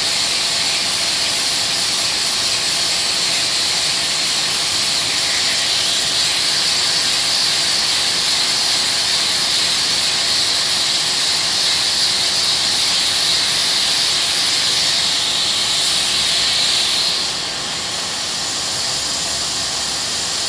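Steady, loud hiss of sandpaper dry-sanding body filler on a car panel. It softens and changes character about three-quarters of the way through.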